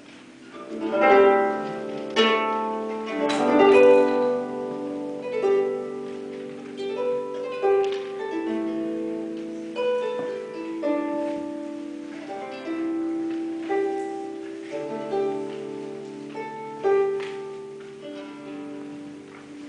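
Harp music: plucked notes and chords that ring on and fade, in a slow, unhurried melody.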